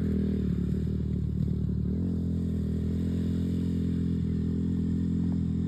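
Dirt bike engine idling steadily, with a slight change in pitch about two seconds in.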